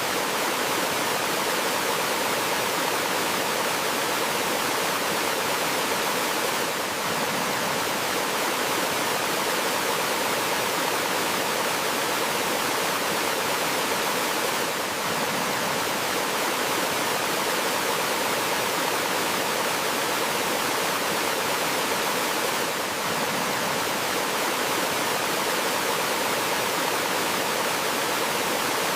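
A small forest waterfall flowing: a steady, even rush of water.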